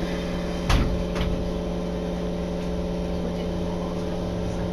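Keisei Main Line electric commuter train running, heard from inside the carriage: a steady rumble with a steady hum. About a second in come two sharp knocks, half a second apart, the first the louder.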